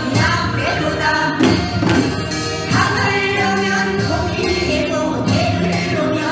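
Korean folk music with singing and a few percussion strikes.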